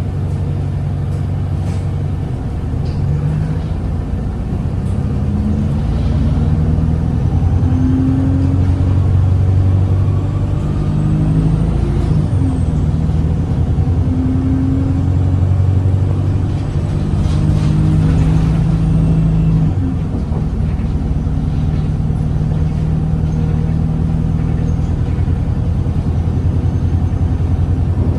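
Cummins ISBe diesel engine of an Alexander Dennis Enviro 200 bus heard from on board, running under load. The engine note climbs twice, dipping about 12 seconds in and dropping away sharply near 20 seconds in, with a faint high whine coming and going over it.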